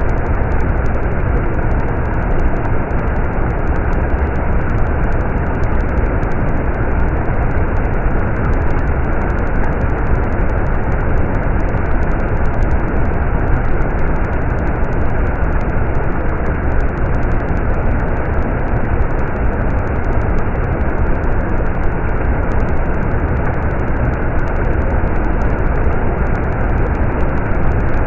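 Stream water rushing and flowing steadily, a deep unbroken rush with no changes.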